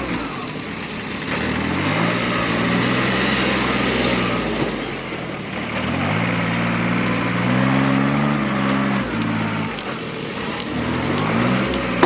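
A work vehicle's engine running under changing load, its revs climbing and easing off several times: rising about two seconds in, dropping, rising higher in the middle, falling again near nine seconds, and picking up once more near the end.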